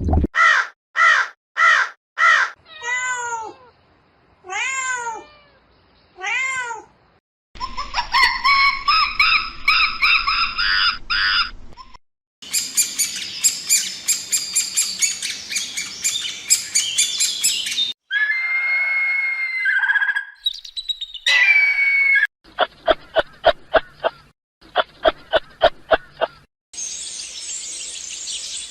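A run of different animal calls, mostly bird calls, switching to a new kind every few seconds: repeated sharp falling chirps, then arched calls, a dense chorus, and rapid trains of clicks near the end.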